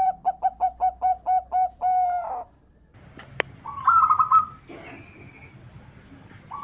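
Zebra dove (perkutut) cooing: a quick run of about eight clipped notes ending in one longer held note. After a short click, a higher, rapid trilling bird call follows about four seconds in.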